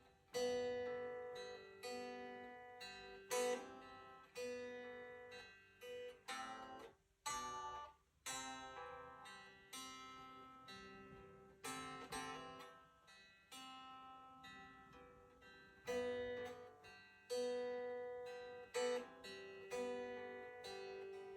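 Acoustic guitar fingerpicked, playing a repeating arpeggiated chord pattern: single notes and pairs of strings plucked in turn and left ringing.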